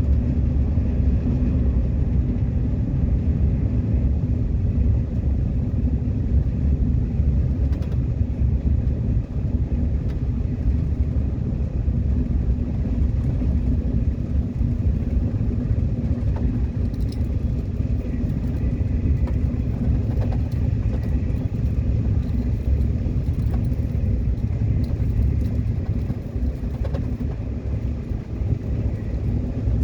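Subway train running, a steady low rumble of wheels and running gear, with a faint thin high tone coming in a little past the middle.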